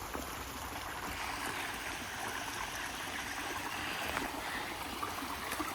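Water running steadily over a small, low waterfall in a creek, a continuous splashing rush.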